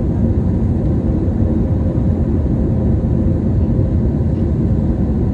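Steady low drone of an airliner in flight, heard inside the passenger cabin: engine and airflow noise with a faint steady hum.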